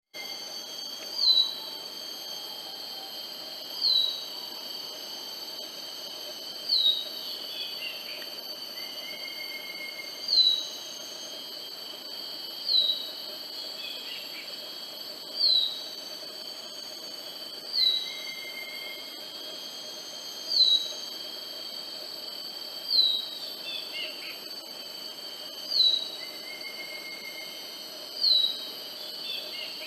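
Black-capped babbler singing its song: a single short, clear whistle that slides down in pitch, repeated about every two and a half seconds. A steady high insect drone runs behind it.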